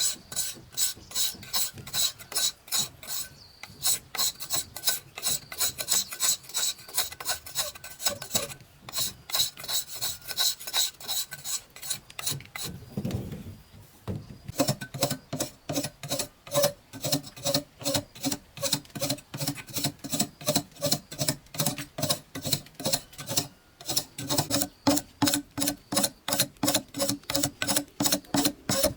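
Rhythmic scraping or rasping, about three strokes a second. It breaks off briefly about thirteen seconds in, then goes on with a deeper tone.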